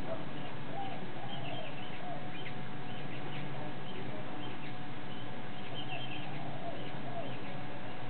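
Small wild birds chirping in many short, scattered calls, with a few lower warbling calls, over a steady background hum.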